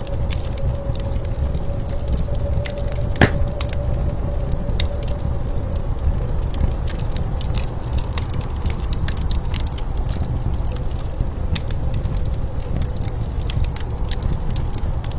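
Wood fire crackling with scattered pops and one sharper crack about three seconds in, over a steady low rumble of blizzard wind.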